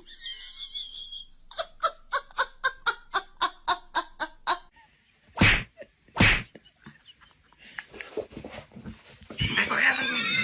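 Laughter in a quick run of about a dozen short pitched bursts, roughly four a second, followed by two loud, short bursts a little under a second apart.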